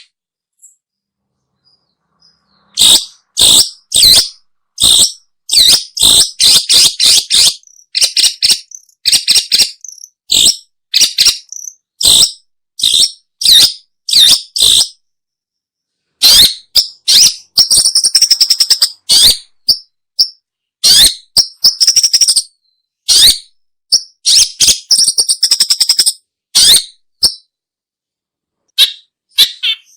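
Long-tailed shrike (pentet, cendet) calling: many short, loud calls in quick runs of several a second, with brief gaps between runs.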